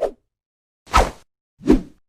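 Three short editing sound effects separated by dead silence: a brief pop, then two quick swishing hits about a second and 1.7 seconds in, each with a low thud.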